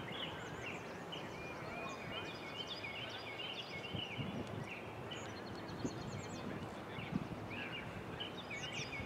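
Outdoor background noise with many short bird calls repeating high up.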